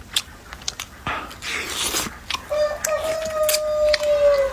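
Close-up eating sounds of someone gnawing on a large pork bone: short crunches, clicks and scrapes. Then a steady high tone lasts about two seconds near the end.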